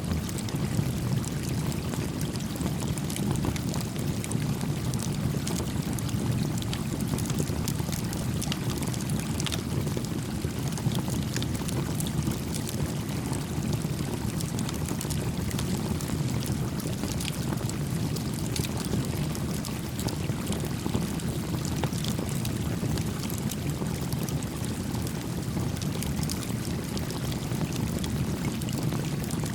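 A small stream flowing steadily, its low, even rush of water heavy in the lower range. Light, scattered crackles and pops from a wood campfire run through it.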